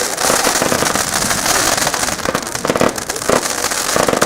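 Nico Pyronator compound firework battery firing, a rapid, continuous run of shots with no pause.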